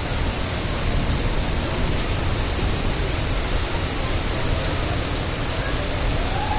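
Heavy rain pouring down as a steady, unbroken hiss.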